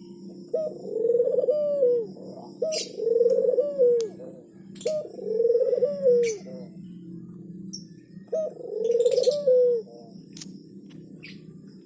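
A dove cooing: four drawn-out coos, each starting with a short note and then swelling and falling off, spaced a couple of seconds apart, with faint high chirps and ticks between them.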